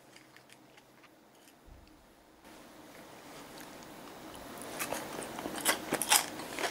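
A person chewing crispy pan-fried salmon skin close to the microphone. The crunching starts about two and a half seconds in and grows louder, with a few sharp crunches near the end.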